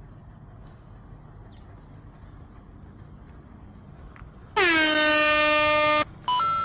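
A loud horn blast with a single pitch and strong overtones, starting about four and a half seconds in. It dips slightly in pitch at the onset, holds steady for about a second and a half, then cuts off abruptly. A short two-step electronic tone follows near the end.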